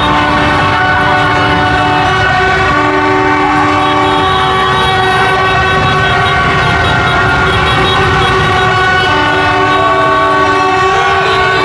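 Many horns sounding at once in overlapping steady tones, one lower horn cutting in and out in blasts of about two seconds, over a steady low rumble of traffic.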